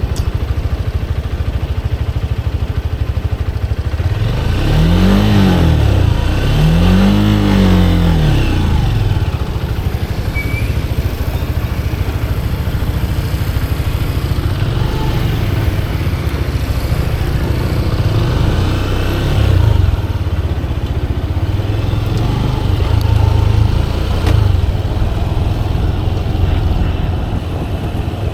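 Motorcycle riding along the street: steady engine and wind rumble, with the engine revving up and back down twice, about five and seven seconds in.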